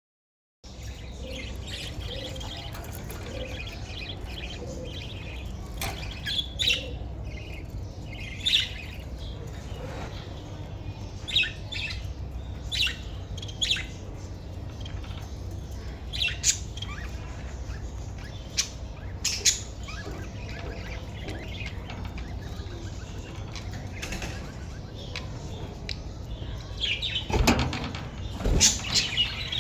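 Baby budgerigar giving short, scattered chirps and squawks over a steady low hum, with a louder flurry of squawks and wing flapping near the end.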